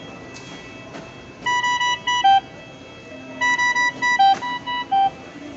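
Dräger Evita V600 ventilator's alarm sounding as ventilation begins: two groups of electronic beeps, mostly at one pitch with a few lower notes among them.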